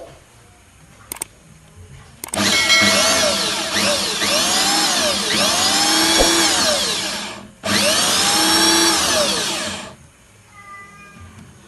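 Electric drill rigged as a coconut grater running in two long bursts with a brief stop between, its motor pitch rising and falling again and again. A couple of sharp clicks come just before it starts.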